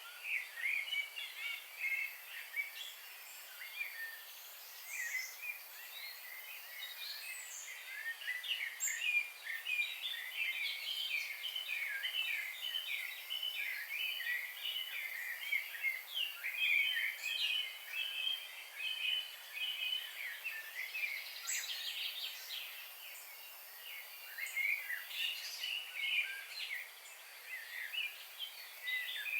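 A chorus of songbirds chirping and trilling together, many short quick high notes overlapping. It thins out briefly near the end.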